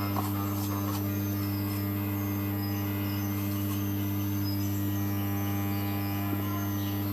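A steady low electrical hum with a strong fundamental and a couple of overtones, holding unchanged throughout, with a few faint ticks over it.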